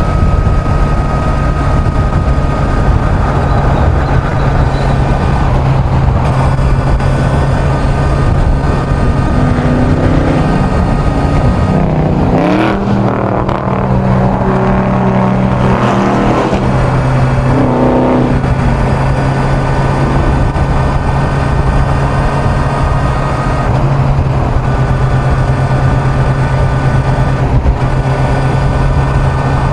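Kawasaki Z900's inline-four engine running at highway cruising speed, a steady engine note under constant wind rush. The note slides and drops a little in the middle, then holds steady again.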